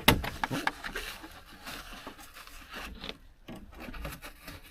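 Scraping and rubbing of a truck's old headliner board and trim being pried and pulled loose, opening with a sharp click and followed by scattered small knocks.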